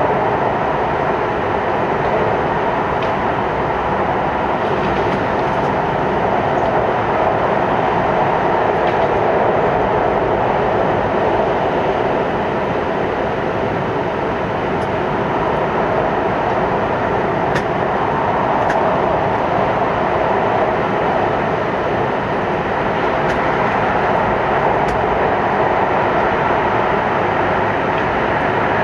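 Hokkaido Shinkansen train running at 160 km/h through the Seikan Tunnel, heard from inside the passenger car: a steady, dense roar, with a few faint ticks.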